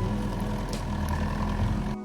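JCB excavator's diesel engine running, its pitch stepping up and down as the hydraulics take load, with a light knock about a third of the way in.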